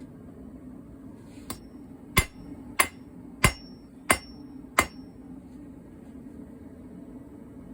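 Hand hammer striking steel on an anvil during forging: six blows about two-thirds of a second apart, the first lighter, each with a short high ring. A steady low hum runs underneath.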